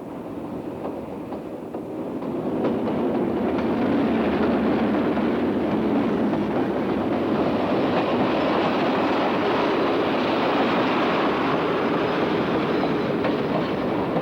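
Passenger train approaching and running past, growing louder over the first three seconds and then holding at a steady, loud rumble of wheels on rail.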